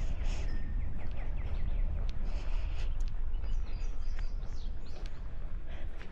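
Songbirds chirping in quick, repeated short notes over a steady low rumble of wind on the microphone.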